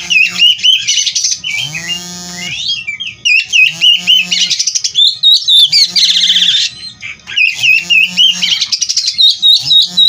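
Oriental magpie-robin (kacer) singing continuously: a loud, fast, varied song of whistles and trills with harsher, lower mimicked calls among them.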